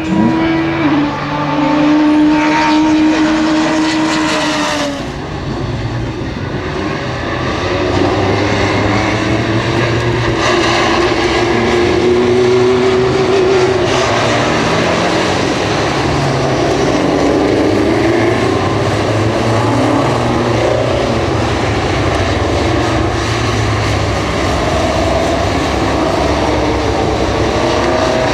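Alfa Romeo race car engines at high revs. For the first five seconds one engine holds a steady note, then cuts off suddenly. After that several engines sound at once, their pitches rising and falling.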